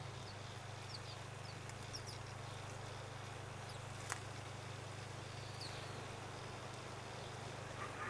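Small birds giving scattered short, high chirps at a garden feeder, with one sharp click about four seconds in, over a steady low hum.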